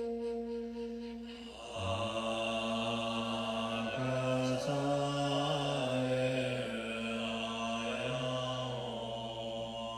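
Mantra chant music: a low male voice chants in long held notes, stepping between a few pitches, over a sustained flute-like tone. The voice comes in about two seconds in.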